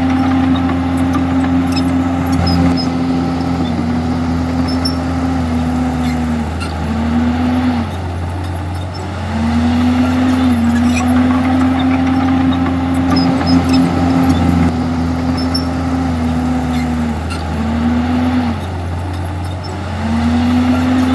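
Komatsu D51EX bulldozer's diesel engine working under load. Its steady note sags, drops away for a moment and comes back up, twice over, about ten seconds apart.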